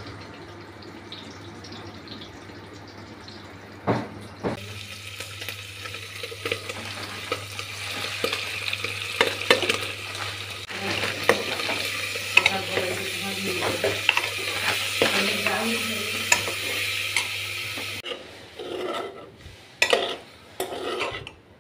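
Meat pieces sizzling as they fry in an aluminium pressure-cooker pan, with a metal spoon stirring and scraping against the pan. The sizzle grows stronger about four seconds in, and near the end it gives way to a few separate clinks of the spoon.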